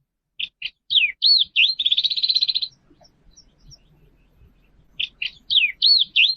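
A songbird singing the same phrase twice: a few short notes and slurred, arching whistles running into a fast trill. The first phrase starts about half a second in, and the second about five seconds in.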